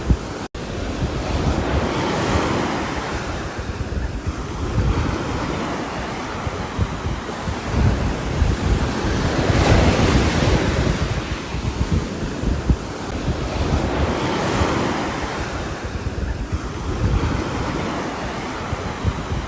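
Rain with gusting wind: a dense rushing noise that swells and eases every five or six seconds, with a momentary dropout about half a second in.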